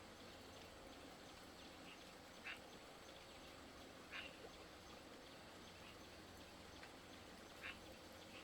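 Faint, short animal calls: three clearer ones a second or more apart and a few fainter ones between, over a steady low hum.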